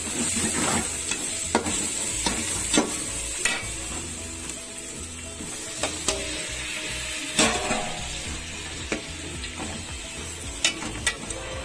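Sliced onions sizzling in oil in a metal pot, stirred with a metal slotted spoon that clicks and scrapes against the pot. About halfway there is a louder knock as chopped tomatoes are tipped in from a steel plate.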